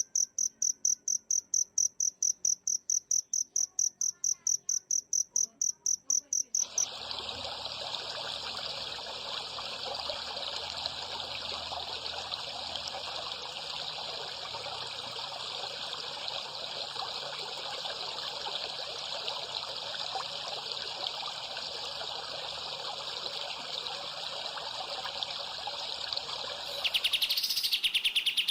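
Bird-training (masteran) track of insect calls: a cricket's high, evenly pulsed chirping at about six pulses a second cuts off suddenly a little over six seconds in. A long, steady, hissing buzz follows, and near the end it gives way to another fast, even trill.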